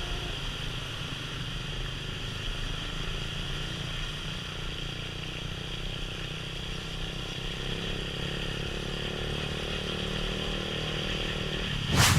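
Motorbike under way, heard from the rider's helmet camera: a steady engine hum mixed with road and wind noise, with a faint rising engine note in the second half. Near the end, one short loud burst of noise, like a gust or bump on the microphone.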